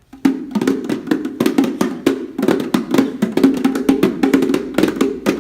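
Bongos played by hand in a fast, uneven run of strikes.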